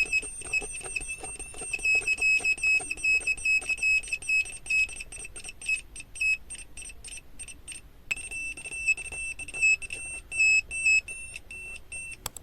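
Homemade earthquake alarm's electronic buzzer sounding a high steady tone that keeps breaking off and restarting in irregular stops and starts, with clicks in between. It mostly drops out for a couple of seconds past the middle, then sounds again.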